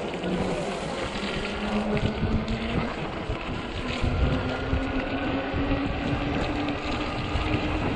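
Electric fat-tire bike's 48 V hub motor whining, its pitch climbing about halfway through as the bike speeds up. Fat tires rumble and jolt over a rough, snow-covered road, with wind on the microphone.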